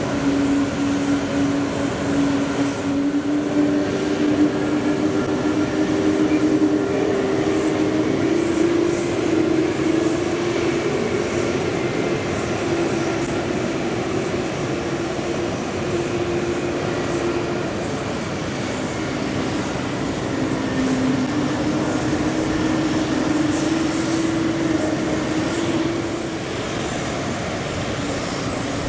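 Jet engines of an ANA Boeing 777-200, Pratt & Whitney PW4074 turbofans, running with a steady drone; a couple of low tones drift slowly up and down in pitch, and a faint higher whine rises and falls over the middle.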